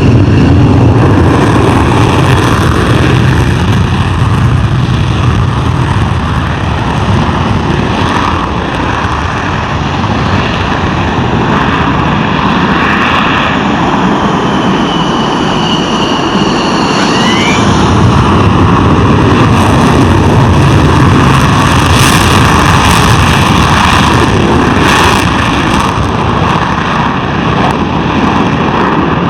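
Military jet aircraft engines running loud and continuous, with a deep rumble under a high whine that slides in pitch partway through.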